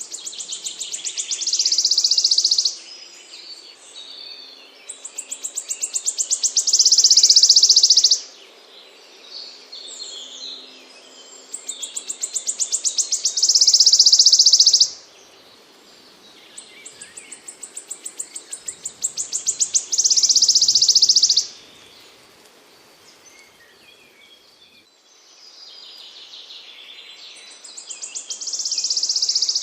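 A small songbird repeating one song phrase five times, about every six seconds: each is a run of high notes that speeds up and grows louder into a dense buzzy trill lasting about three seconds, then stops abruptly. Fainter chirps from other birds fill the gaps.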